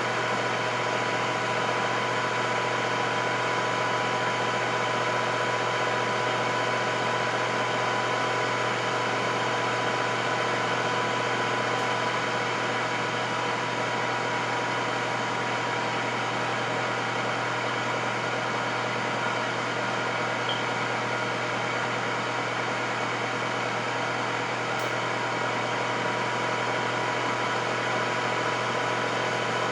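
Electric air fryer running: a steady fan noise with a constant hum and a steady whine, unchanging throughout.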